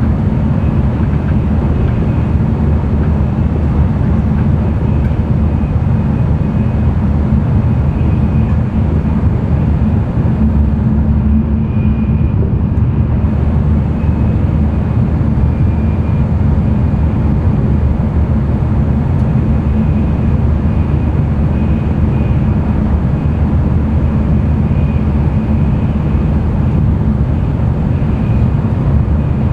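N700-series Shinkansen running at speed, heard inside the passenger cabin: a steady rumble and rush of running noise with a faint high whine. The higher hiss briefly dulls about twelve seconds in.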